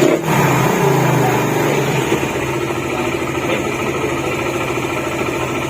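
Suzuki Raider 150's freshly rebuilt single-cylinder four-stroke engine running: louder for the first couple of seconds, as in a brief rev, then settling to a steady idle.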